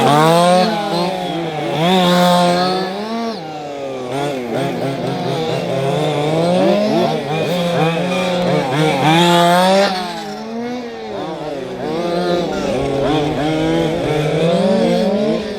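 Several radio-controlled model racing cars with their motors whining together, each pitch rising and falling over and over as the cars accelerate and slow around the track.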